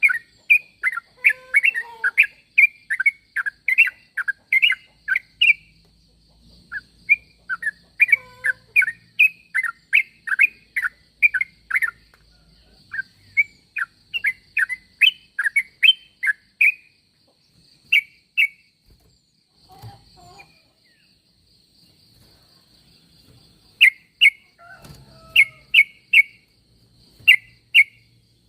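Yellow-vented bulbul (trucukan) calling: quick runs of short, bubbly chirping notes, about three or four a second, in phrases a few seconds long with pauses between, sparser in the second half. This is a call used to draw other trucuk birds to answer.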